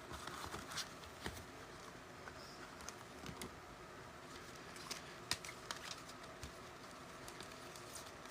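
Faint handling noise of trading cards: scattered light clicks and taps over a steady low room hum.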